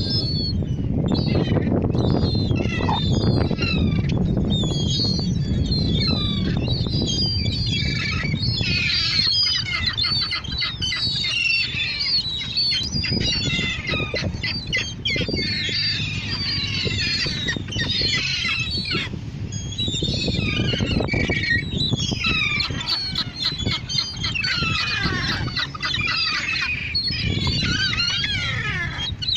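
A flock of seagulls calling, many short falling calls overlapping continuously, over a steady low rumble.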